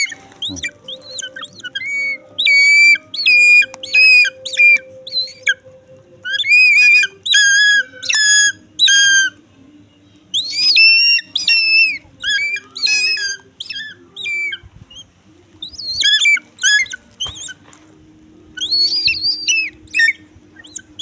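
An eagle calling in about five runs of quickly repeated, shrill, high-pitched notes, with short pauses between the runs. It is agitated and guarding its food.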